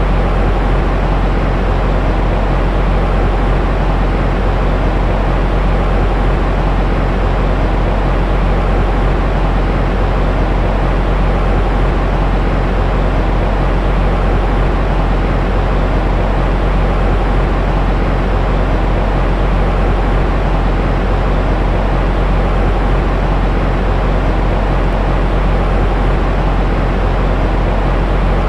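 Steady, unchanging sleep-aid noise for soothing a baby, weighted toward the low end so it sounds deep and rumbly rather than hissy.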